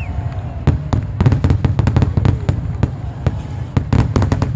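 Fireworks display: a rapid, irregular string of sharp bangs and crackles from bursting shells, over a low rumble.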